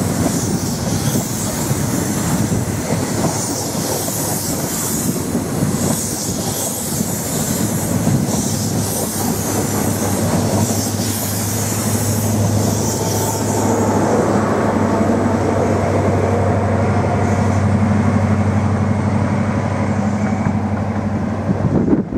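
An express passenger train's coaches passing at speed, the wheels rumbling and clattering on the rails under a high rushing hiss. About halfway through a steady low engine drone comes in and the hiss fades.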